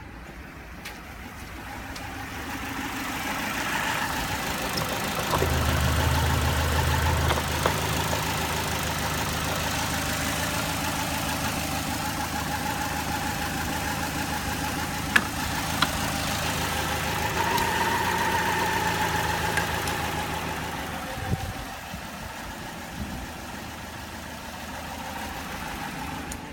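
Citroen C4's NFU 1.6-litre four-cylinder petrol engine running steadily. It grows louder a few seconds in and rises a little again in the middle, then settles back quieter near the end.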